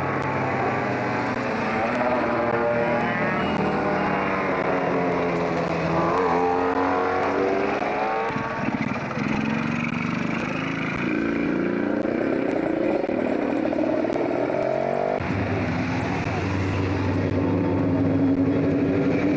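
Rally car engine running hard, its pitch rising and falling again and again as it accelerates and shifts gear. There is a sudden change in its low note about fifteen seconds in.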